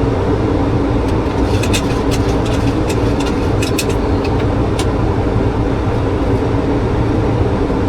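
Steady cockpit noise of a Boeing 737 in flight on approach: a constant rush of air with a low hum underneath. A scatter of light clicks comes from about one and a half to five seconds in.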